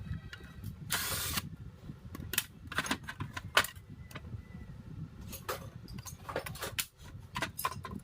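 Scattered clicks and knocks of tools and parts being handled during a starter motor repair, with a short hissing burst about a second in, over a steady low rumble.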